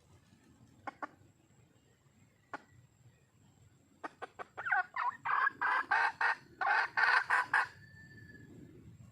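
Red junglefowl hen calling to attract a cock: a few scattered short clucks, then a quickening run of clucks about four seconds in that builds into a loud cackle of some eight rapid notes, breaking off near the end.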